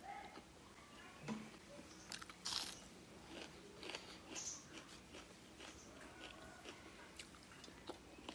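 Close-up eating sounds of a person chewing food with her mouth closed: soft wet chewing and lip smacks with scattered short crunchy clicks. The loudest is about two and a half seconds in.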